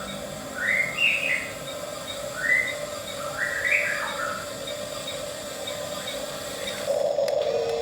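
A bird chirping in four short phrases over the steady hum of a small electric motor, the RC bulldozer at work. The hum gets louder near the end.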